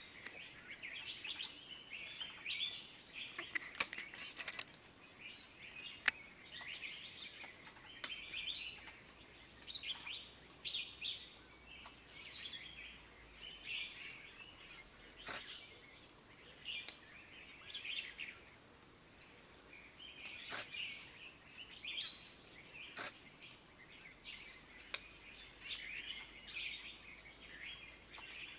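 Birds giving quick, chirpy calls over and over, about one burst a second, with a few sharp clicks among them.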